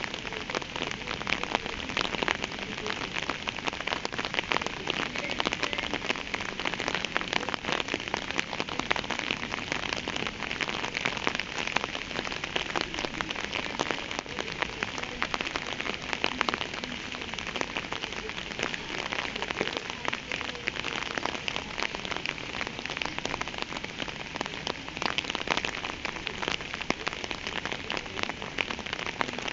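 Steady rain falling on a surface, a dense even patter of many close drops with no let-up.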